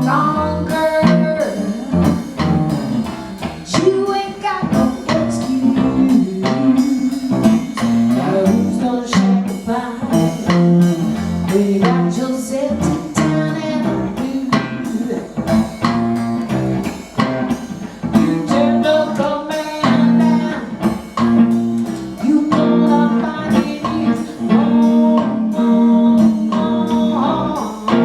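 Blues band playing a song, with guitar and singing.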